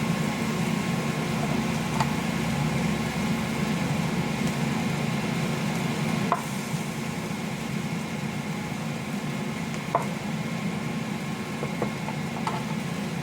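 A steady low mechanical hum, with four light clicks or knocks spread through it.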